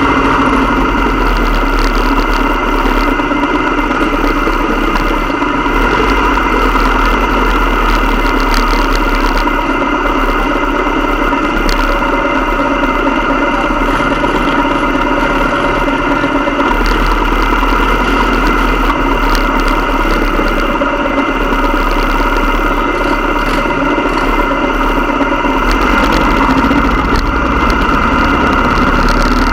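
Motorcycle engine running steadily, holding an even pitch.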